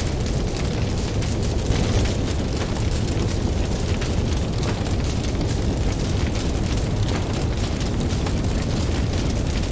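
Campfire crackling with many small, irregular pops over a steady low rumble of ocean waves.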